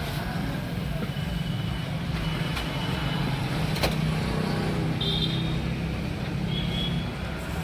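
A motor vehicle engine running steadily, with a sharp click about four seconds in and brief high squeaks after it.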